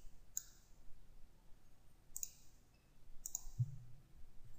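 Computer mouse clicking a few times at uneven intervals, with a short low thump about three and a half seconds in.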